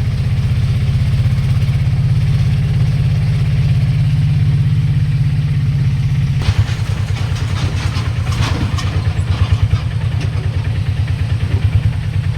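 A vehicle engine running close by with a steady low pulse. About six seconds in the note changes to a slower, uneven throb, with some brief rattling.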